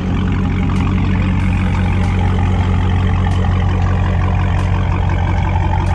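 Car engine running steadily through an exhaust with its mid muffler removed, giving a loud, deep, even drone.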